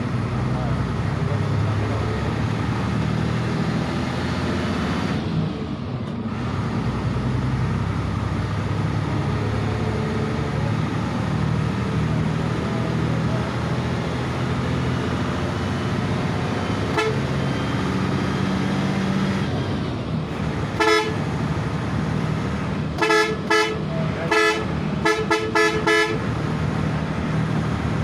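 Hino 1J bus's diesel engine running under way, its pitch shifting up and down. A horn toots briefly twice midway, then sounds in a quick series of short honks near the end.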